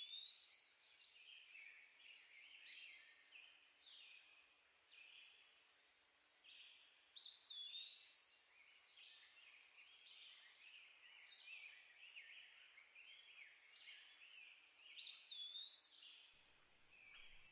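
Faint woodland birdsong: songbirds singing fast, varied, high-pitched phrases that swell in bursts near the start, about seven seconds in and about fifteen seconds in.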